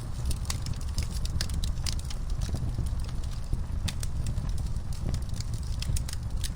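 Wood fire burning in a fireplace, crackling with frequent irregular pops and snaps over a low, steady rumble of flame.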